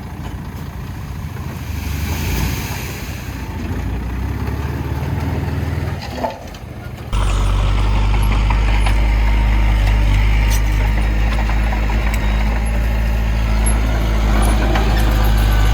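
Heavy diesel engine of construction machinery running, with a brief hiss near the start. About seven seconds in, the sound changes abruptly to a louder, steadier low engine sound.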